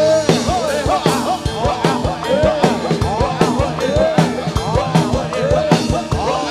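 Live gamelan music for a jathilan dance: a busy, driving pattern of drum strokes over ringing melodic tones, with pitches that rise and fall again and again.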